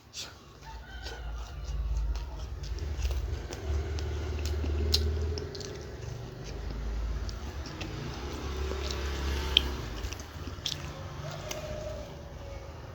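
Close-up eating: biting and chewing samosa and green chilli, with many small crisp crunches and clicks. A low rumble swells and fades beneath the chewing.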